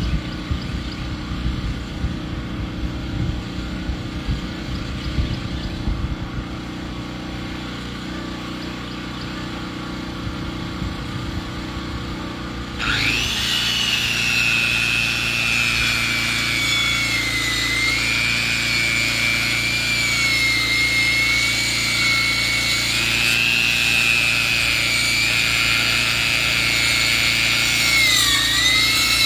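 Engine-driven sawmill: the engine runs steadily, then about 13 seconds in the saw bites into the log and a loud, high whine starts, wavering in pitch as it cuts.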